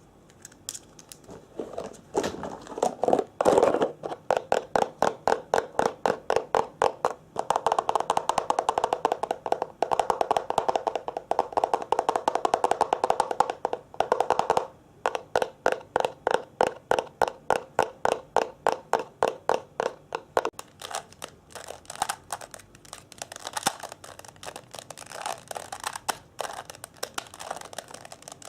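Rapid, even tapping, several taps a second, with a hollow ring to the taps in long stretches. It pauses briefly twice.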